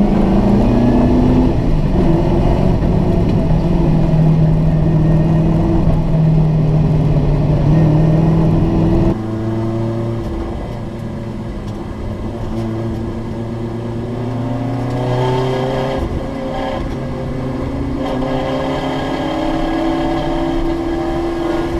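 A large field of Group A and Group C touring cars accelerating away at a rolling race start, many engines running hard together with their pitch climbing through the gears. The sound changes abruptly about nine seconds in and again near sixteen seconds, each time to a fresh rise in engine pitch.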